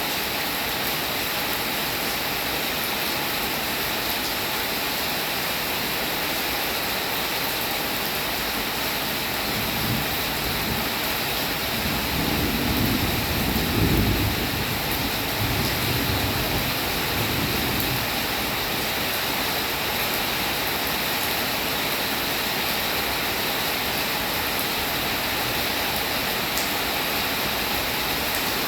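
Steady rain falling in an even hiss. In the middle, a low rumble swells for several seconds and fades away.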